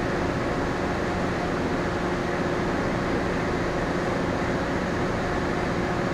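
Steady hum of the moored cargo-passenger ship Ogasawara Maru's onboard machinery and ventilation: an even drone with a few constant low tones running through it.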